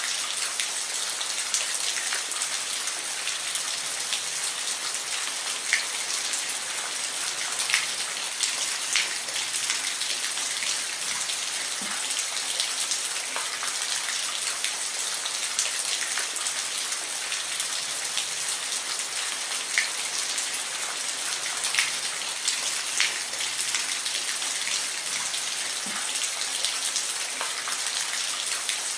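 Steady rain with individual drops ticking sharply now and then on a hard surface.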